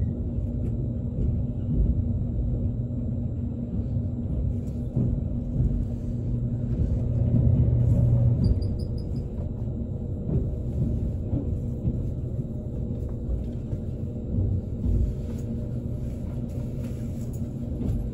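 Interior running noise of a JR Kyushu 787 series electric train rolling slowly: a steady low rumble of wheels on track with a faint electrical hum. The train is coasting in on its final approach to a terminus.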